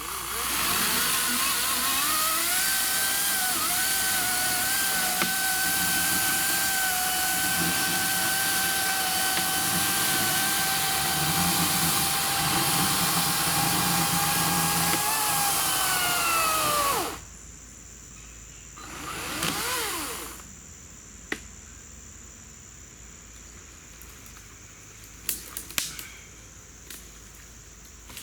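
EGO 56-volt cordless electric chainsaw with an 18-inch bar cutting into a large fallen log. The motor whines up to speed and runs steadily for about seventeen seconds, its pitch wavering a little under load, then winds down as the trigger is let go. A brief swell of noise and a few light knocks follow.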